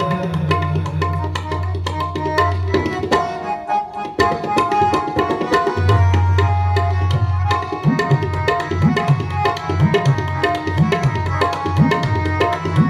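Instrumental interlude of Sikh kirtan: tabla keeps a steady rhythm under sustained harmonium melody notes. In the second half the deep left-hand drum (bayan) bends upward in pitch on several strokes.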